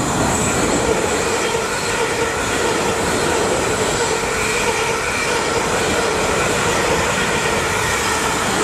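Multiple-unit passenger train running past close to the platform: a steady, loud rumble of wheels on rail with an even whine running through it.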